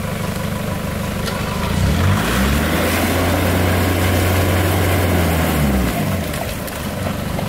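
Four-wheel drive's engine idling, then revved up about two seconds in and held for some four seconds before dropping back to idle, during a winch recovery of a 4WD bogged to its diffs in mud.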